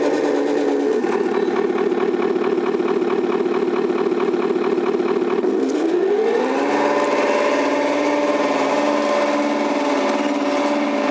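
Turbo9 sound module in a 1/14-scale Tamiya Knight Hauler RC truck playing a simulated big-rig diesel engine through its small speaker. It runs at a steady speed, then about halfway through the pitch rises smoothly and holds at a higher engine speed, as when the truck is throttled up.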